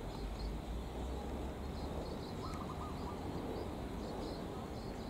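Outdoor ambience with a steady low rumble, over which small birds give short chirps several times.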